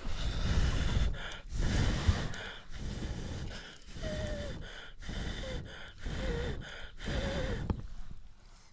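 A person's breath in repeated short puffs of air, about one a second, some with a faint wavering whistle.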